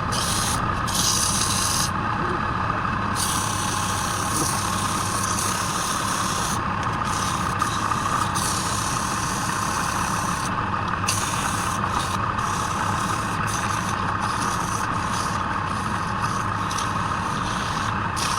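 Wood lathe running with a tool working the spinning wood: a steady motor hum under a rasping, scraping sound that breaks off and returns every second or so.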